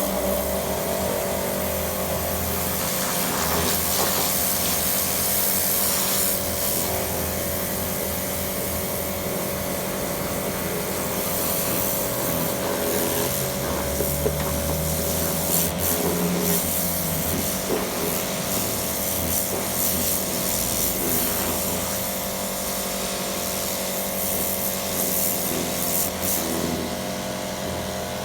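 Pressure washer running steadily, with a constant hiss of spray over a steady mechanical hum.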